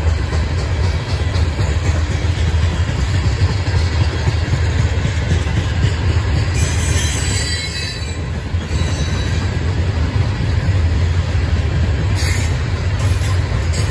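Loaded coal hopper cars of a Norfolk Southern freight train rolling past with a steady low rumble. The wheels squeal high-pitched for about two seconds near the middle, and briefly twice more near the end.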